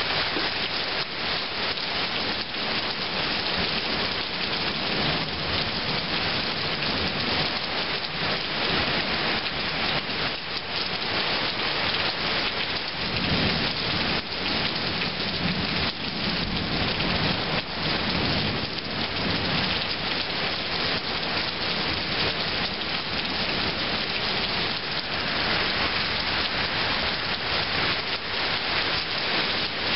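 Heavy rain pouring steadily in a thunderstorm, with a low rumble of thunder rolling for several seconds about halfway through.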